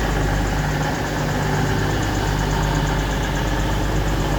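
East Midlands Railway Class 222 Meridian diesel multiple unit standing with its diesel engines idling: a steady low hum.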